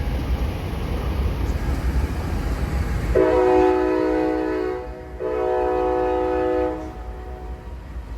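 Diesel locomotive air horn sounding two long blasts, each about a second and a half, with a brief gap between, over the low rumble of idling locomotives. Two long blasts is the signal that the train is about to move off.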